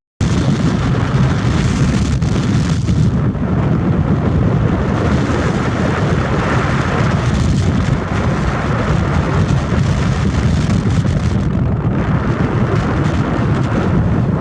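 Steady wind rumble buffeting the microphone of a camera carried on a moving bike, with no engine tone showing through.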